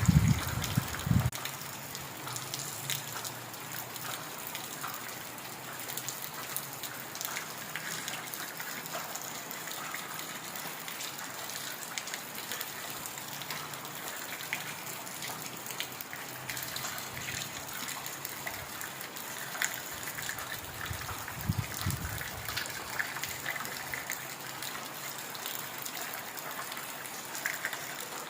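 Heavy rain falling steadily, a dense hiss of drops with scattered sharper patters. A brief low rumble comes at the very start and again about two-thirds of the way through.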